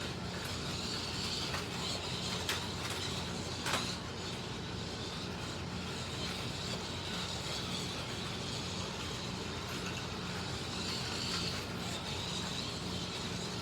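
Slot cars lapping a track: the small electric motors of MR Slotcar Cunningham Corvettes and a Scalextric Mercedes 300 SLR whining, their pitch rising and falling as they pass, with a steady low hum beneath. There are two sharp clicks a few seconds in.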